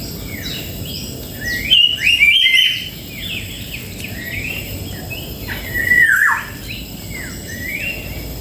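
Songbirds chirping and singing continuously, with many quick falling notes overlapping. There are louder bursts of song about two seconds in and again about six seconds in.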